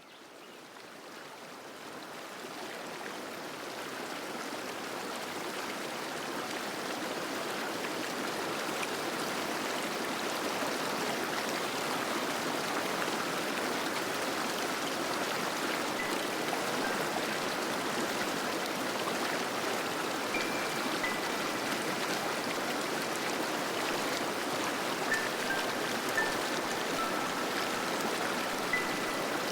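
Small waterfall rushing steadily, fading in over the first few seconds. A few faint, short high tones sound over it in the second half.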